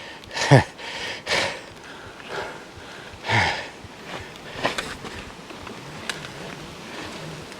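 A man breathing hard with exertion: a series of heavy breaths and grunting exhalations about a second or so apart.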